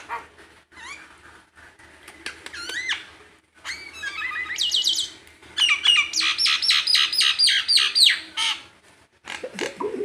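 A tame pet bird calling: whistled notes sliding up and down in the first few seconds, then from about the middle a fast run of sharp, repeated chirps, about four a second, lasting some three seconds.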